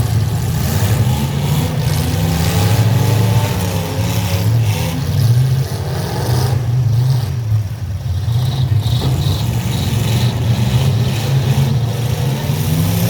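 Full-size pickup truck engines revving loudly in a demolition derby, the pitch wavering up and down.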